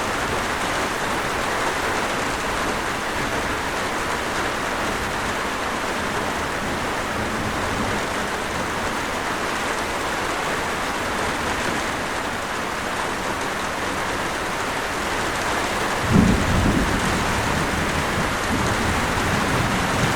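Steady rain, with a low rumble of thunder starting near the end.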